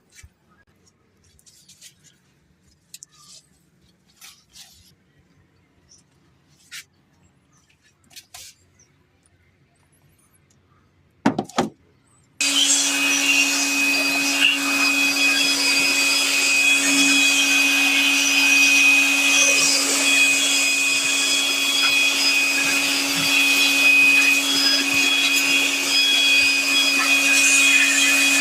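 Faint clicks and handling knocks, then a high-speed electric motor switches on abruptly about twelve seconds in and runs steadily with a constant hum and a high whine, like a vacuum cleaner or blower.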